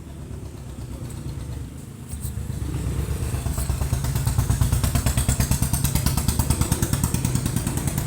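Motorcycle engine running close by, a low rapid pulsing that grows louder over the first few seconds and then holds steady.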